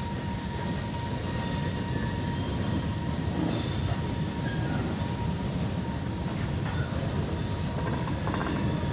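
Freight train cars rolling past at a grade crossing: a continuous heavy rumble and clatter of steel wheels on the rails, with a thin steady high tone running underneath.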